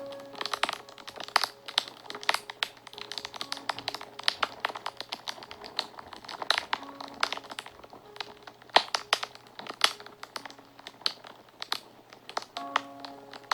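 Fire crackling and popping, with quick irregular pops throughout and a few louder snaps. Soft sustained background music notes sound faintly underneath.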